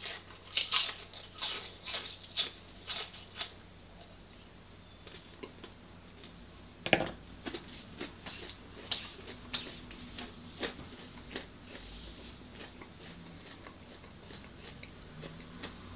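Close-up chewing of crunchy deep-fried food: a quick run of crisp crunches over the first few seconds, then slower, scattered chewing sounds with one louder crunch about seven seconds in.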